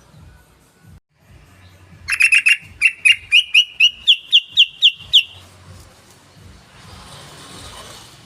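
Sooty-headed bulbul (trucukan) singing: a loud, quick run of about fifteen sharp notes starting about two seconds in and lasting some three seconds, climbing slightly in pitch toward the end.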